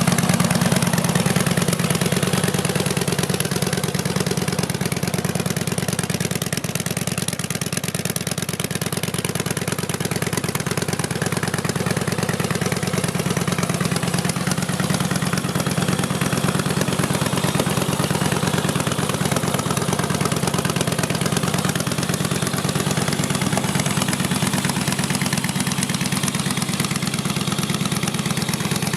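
Victory Hammer S's 1731 cc V-twin idling steadily through aftermarket Freedom Performance exhaust pipes.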